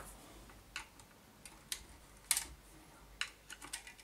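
Light, irregular clicks and taps from the miter saw motor's housing and parts being handled while crumbs of a worn-out carbon brush are worked out of the brush compartment, the loudest tap a little past two seconds in.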